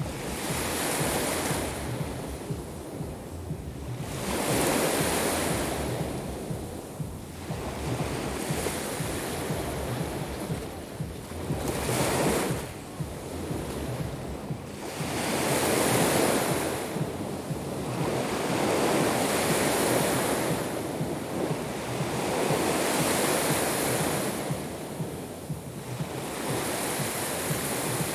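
Black Sea waves breaking on the shore, a fresh wash swelling and fading every three to four seconds, with wind rumbling on the microphone.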